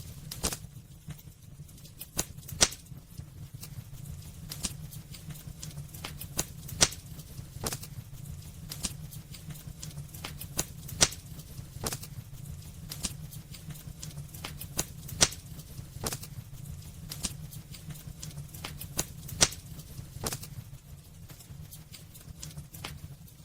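Wood fire crackling in a fireplace: irregular sharp snaps and pops over a steady low rumble of the flames, with a handful of louder pops spaced a few seconds apart.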